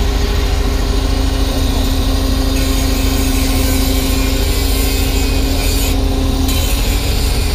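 Kubota U35-3 mini excavator's diesel engine running under load as it digs a trench in soil. A steady tone rides over the engine and drops away about five seconds in.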